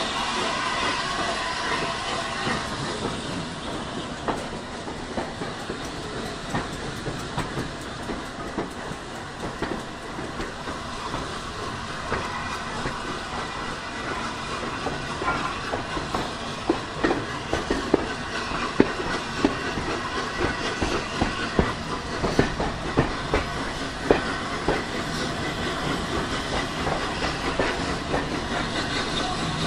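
A train hauled by steam locomotive 60103 Flying Scotsman rolls along the line, heard from a carriage. It makes a steady rumble, and from about halfway through the wheels click sharply and often over the rail joints.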